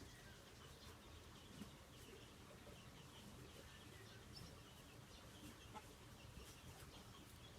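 Faint bird calls: scattered short chirps over a very quiet outdoor background.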